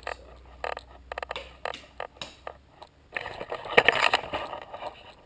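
Handling noise: a run of light clicks and taps, then about three seconds in a second or two of rustling and scraping.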